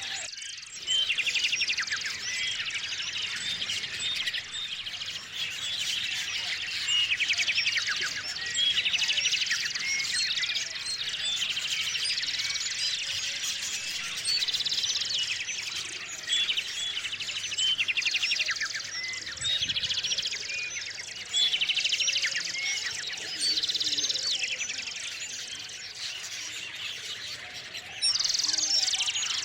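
A chorus of small songbirds chirping and trilling at once, many short, high calls overlapping, swelling in louder bursts every second or two.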